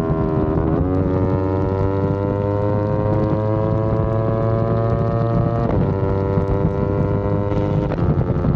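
Yamaha R25's 249 cc parallel-twin engine under way, its pitch climbing slowly as it accelerates, with quick gear changes about half a second in, near six seconds and near eight seconds, as it shifts up one gear at a time. Wind noise on the microphone runs underneath.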